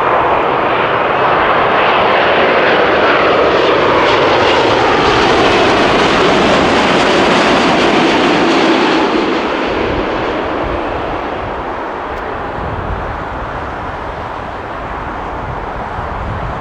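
Boeing 787-9 airliner passing close on landing, loud jet engine noise with a whine that slides down in pitch as it goes by. The noise fades to a lower rumble from about ten seconds in.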